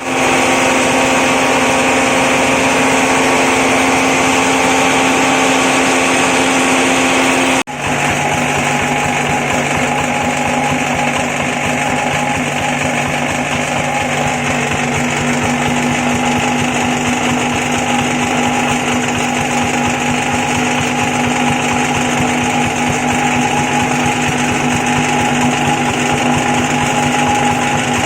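Chicken-feather shredding machine running steadily with a constant mechanical hum. It breaks off for an instant about eight seconds in, then carries on at a slightly lower pitch.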